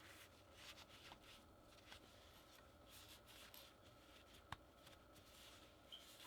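Near silence with faint rustling and scraping of hands handling packaging, and one sharp click about halfway through.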